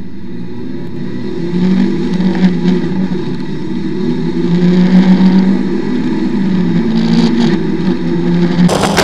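Mk1 Mazda MX-5's four-cylinder engine driven hard up a hill climb, heard from inside the open cockpit, its note climbing and dropping several times as it revs through the run. Near the end, wind buffeting the microphone suddenly takes over.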